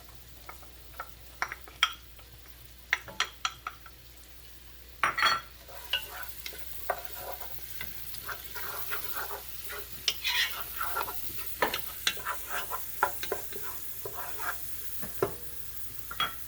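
Chopped onions and garlic frying in oil in a pan, stirred with a utensil that scrapes and clicks against the pan many times. The sizzle grows louder from about six seconds in.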